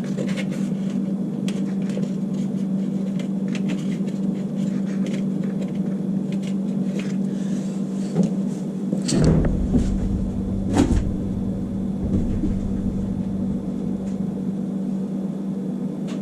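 A steady mechanical hum runs throughout, with light clicks and clatter of metal parts being handled. About nine seconds in, a low rumble joins, with two louder knocks.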